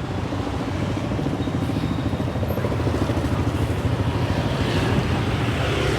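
Small motorcycle engines running close by as riders pass, a steady low rumble with a fast pulsing, getting a little louder about four to five seconds in.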